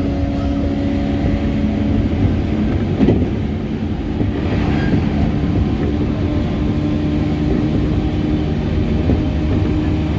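Running noise of a JR Tokaido Line local electric train at high speed, heard inside the carriage. There is a steady rumble of wheels on rail and a humming drone, with one sharp knock about three seconds in.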